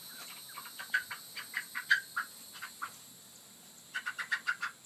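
Chicken clucking: a run of short, repeated calls, then a quicker burst of about six near the end, as from a hen disturbed by being chased.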